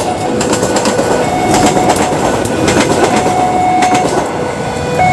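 Passenger train passing close by at a level crossing: a steady rush of wheels on rail with clacks over the rail joints. Over it the crossing's electronic warning alarm sounds two alternating tones, switching about once a second.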